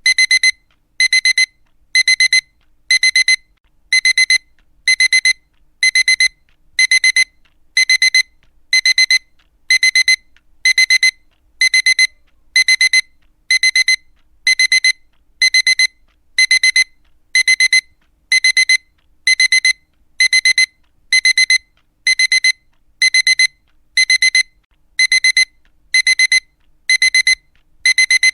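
Digital alarm clock going off: a high-pitched electronic beep sounding in short bursts of rapid pulses, about once a second, repeating without change.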